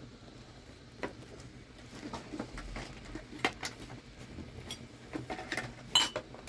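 Cooking pots and utensils being handled: scattered light knocks and clicks, with a sharper metallic clatter about six seconds in.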